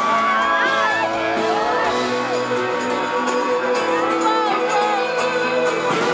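Live band music from the stage with sustained chords, while the audience screams and whoops over it in high, sliding shrieks.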